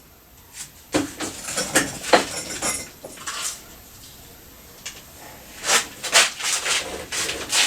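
Irregular metal clunks, knocks and scrapes as a Kawasaki ZZR600 motorcycle engine is manoeuvred into its frame. There is a quieter spell in the middle, then a further run of knocks near the end.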